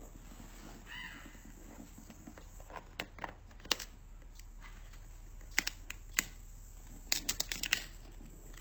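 A parrot gives a short call about a second in, then its beak cracks and clicks at a Brazil nut shell in irregular sharp snaps, ending in a quick run of cracks near the end.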